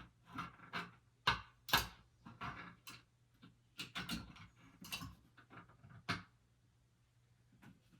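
Irregular small clicks and knocks of shower fittings and tools being handled, with two louder knocks a little over a second in and again just before two seconds.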